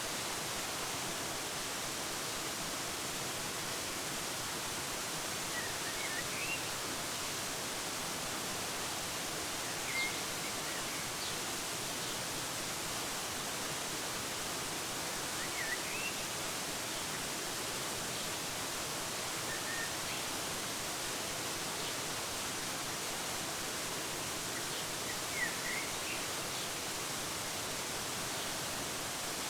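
Steady rush of a waterfall, with a bird giving a short rising chirp every few seconds, about five in all.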